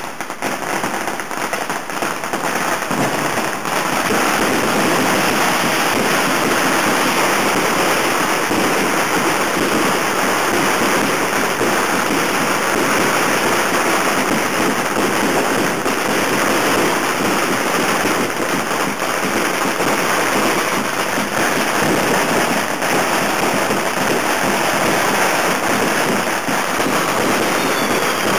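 Fireworks crackling in a dense, continuous barrage, a rapid rain-like crackle that builds over the first few seconds and then holds steady.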